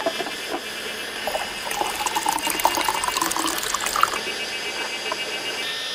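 Water pouring into a container, splashing for a few seconds from about a second in, over a steady chorus of cicadas.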